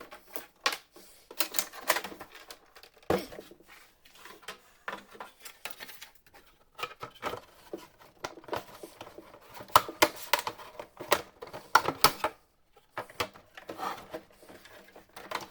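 Irregular clicking and clattering of hard plastic parts being handled and fitted, as the laser printer's plastic casing panels go back on.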